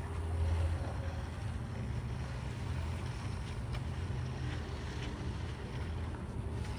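A heavy diesel engine running steadily with a low rumble, with wind noise on the microphone.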